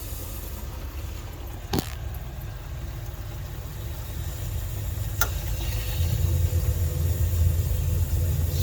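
Propane tankless water heater running with a steady low rumble that grows louder about six seconds in as it fires up to heat the water. Two sharp clicks sound in the first half.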